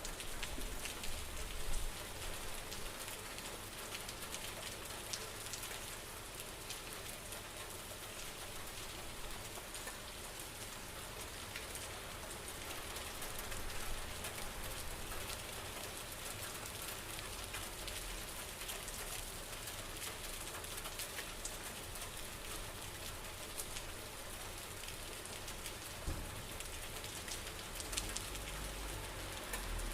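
Steady rain falling, a continuous patter of many drops with a low rumble underneath.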